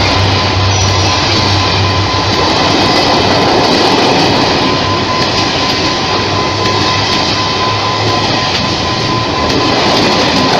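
Train running along the track: a loud, steady rumble with a thin, steady high whine over it.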